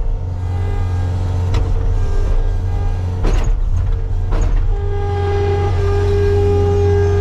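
Tractor engine running steadily while loading haylage, with a few clunks. A higher engine tone grows stronger about five seconds in.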